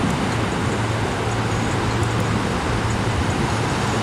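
Steady drone of an aircraft's engines passing over, an even rushing noise with a low hum held through it.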